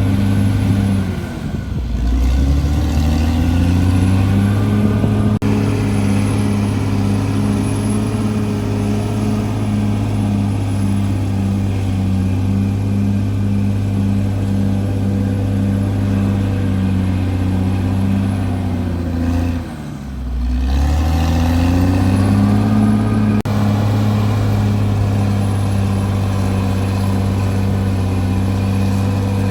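CAT D6R bulldozer's diesel engine running hard at steady high revs; twice, about 2 seconds in and about 20 seconds in, the revs dip sharply and then climb back up.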